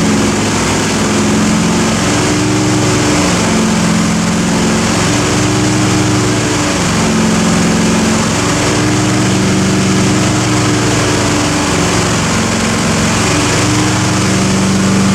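383 cubic-inch Chevrolet stroker small-block V8 running steadily on an engine dyno with no load on it, held at a constant speed while the oil warms up before a pull.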